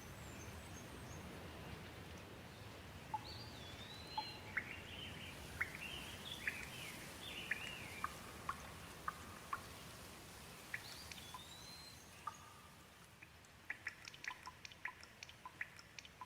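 Gentle rain falling as a faint steady hiss, with water dripping in short ticks that come thick and fast near the end. A bird chirps a run of short calls in the first half and again briefly later.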